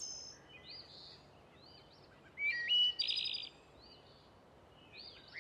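Birds chirping and singing: short, rising whistled notes repeated over a faint background hiss, with a louder trilled phrase about two and a half seconds in.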